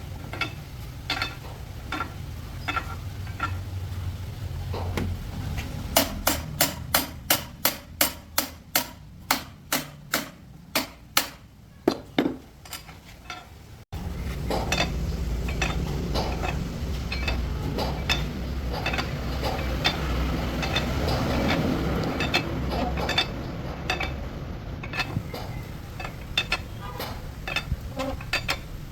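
Hammer blows on metal, evenly spaced at about two to three a second for some six seconds, among scattered lighter clinks. After an abrupt cut, a dense run of metal tools and parts clinking and scraping over a steady low hum.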